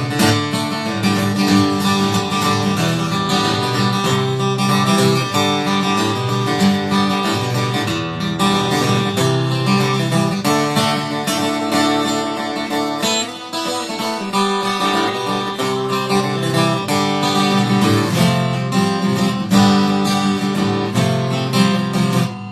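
Acoustic guitar playing an instrumental outro of steady picked notes and strummed chords, without singing. The final chord rings out at the very end.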